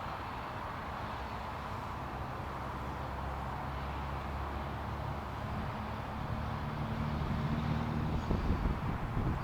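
A motor vehicle's engine hum over steady traffic noise, growing louder through the second half. Near the end, wind buffets the microphone.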